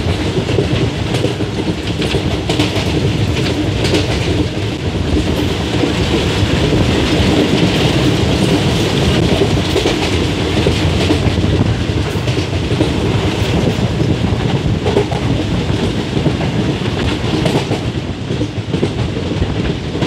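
Moving passenger express train heard from on board: steady running rumble of the coach's wheels on the rails, with scattered sharp clicks.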